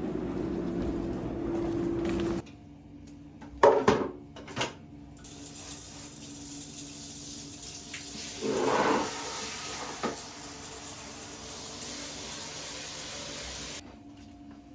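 Water running from a kitchen tap in a steady hiss, with a few sharp knocks of dishes near the start.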